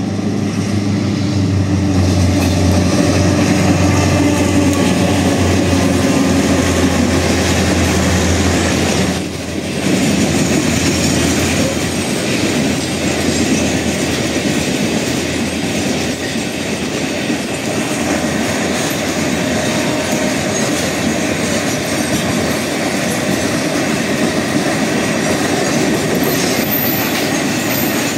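A train passing close by. The locomotive's low engine drone is heard for about the first ten seconds, then the wagons roll past with a steady rush of wheel-on-rail noise.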